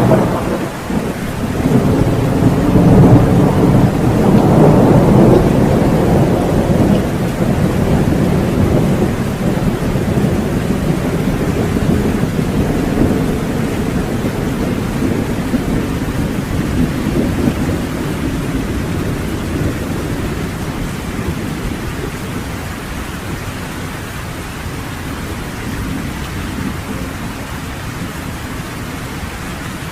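Rolling thunder over steady heavy rain: a deep rumble builds to its loudest a few seconds in, then slowly dies away over the next twenty seconds or so while the rain keeps hissing.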